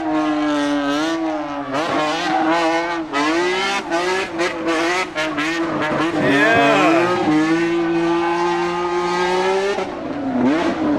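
Racing car engine revving hard at high revs, its pitch wavering up and down, with tyre squeal from a drifting run.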